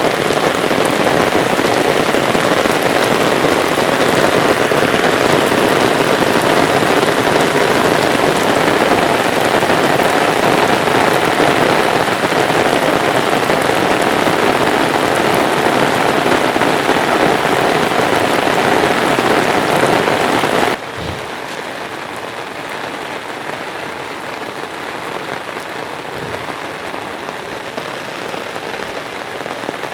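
Heavy rain falling steadily. About two-thirds of the way through it drops suddenly to a quieter, still steady level.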